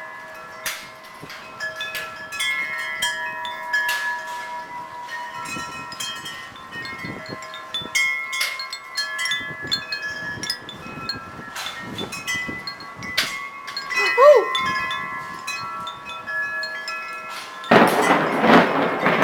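Wind chimes ringing irregularly in a storm wind, many struck tones overlapping. Near the end, a loud rush of noise sets in abruptly and covers them.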